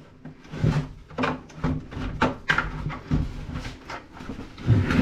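Irregular knocks and clunks of plastic and metal parts of an old HP CRT monitor being handled and set down during dismantling, the loudest near the end.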